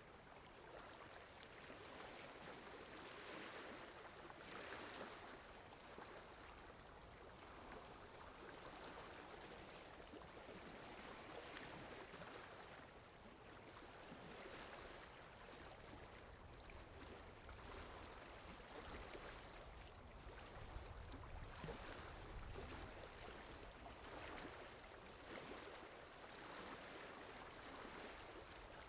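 Steady, soft rainfall, swelling and easing every second or two, with a low rumble for a few seconds about two-thirds of the way through.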